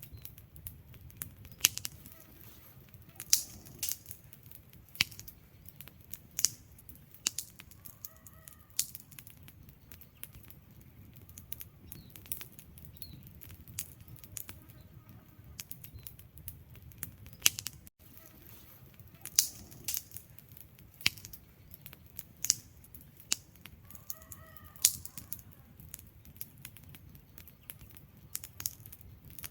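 Wood fire in a fireplace crackling: sharp, irregular pops and snaps from the burning logs over a low steady rumble of flame. Two brief faint squeaks come through in the middle and near the end.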